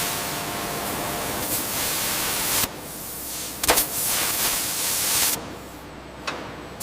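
Loud hissing noise in two stretches, each cut off abruptly, with a sharp click as the second one starts and another click near the end.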